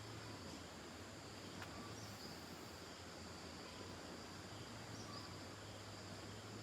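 Faint outdoor ambience of insects such as crickets chirring steadily in a high, even drone over a low hum, with a couple of faint chirps.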